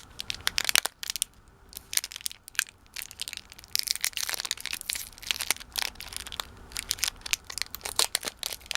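Plastic wrapper of an individually wrapped hard coffee candy crinkling and crackling as it is handled and twisted open, in quick irregular snaps.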